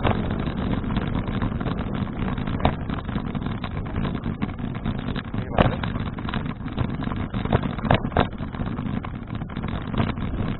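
Steady wind and rolling noise picked up by an action camera on a moving folding bicycle, with a few short sharp knocks or rattles, the clearest about halfway through and two close together later on.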